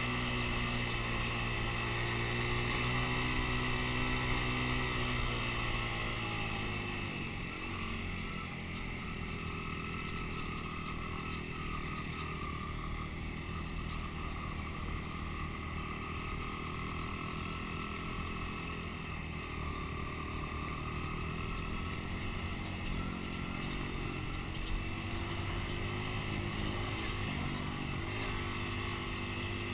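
Dirt bike engine running, its revs dropping about six seconds in and picking up again near the end.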